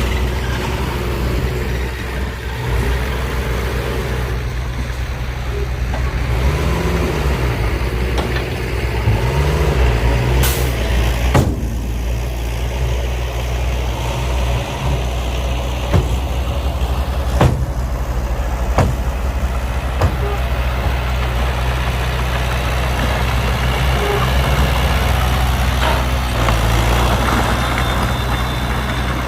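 Heavy diesel earthmoving machinery running steadily. The engine pitch rises and falls a few times, then come a brief hiss and several sharp knocks.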